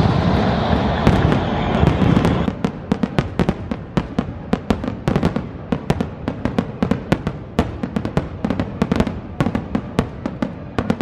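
Fireworks going off in a fast, irregular run of sharp cracks and pops, several a second. A loud steady rush underlies the first two seconds or so, then drops away, leaving the cracks.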